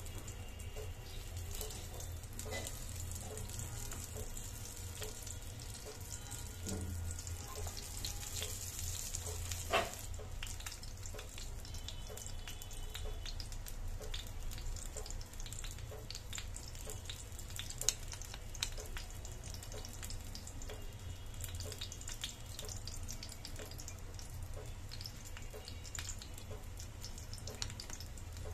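Gram-flour-coated eggplant slices shallow-frying in mustard oil, with a steady sizzle full of small crackles over a low hum. A couple of sharp clicks stand out, about ten seconds in and again near eighteen seconds.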